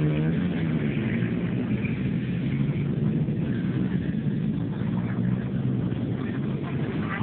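Motocross dirt bike engines running, with a rev that bends in pitch at the start, over a steady engine drone.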